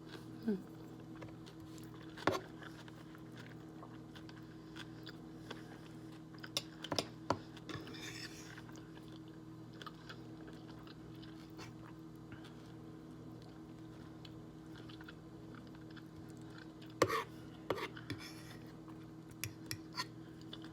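A person chewing and biting food close to the microphone, with scattered short clicks, over a steady low hum.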